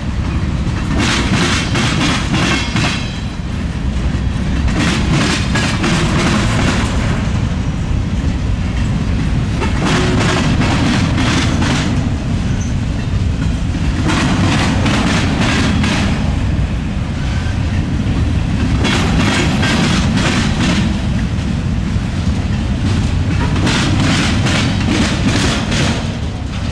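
Freight train rolling over a railroad diamond crossing: a steady low rumble, with a burst of clattering wheel clicks every few seconds as each car's wheelsets bang across the diamond.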